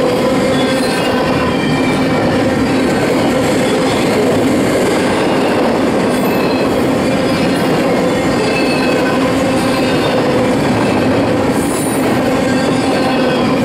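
Double-stack intermodal well cars rolling past on the rails: a steady, loud wheel-on-rail rumble, with faint wavering squeals from the wheels.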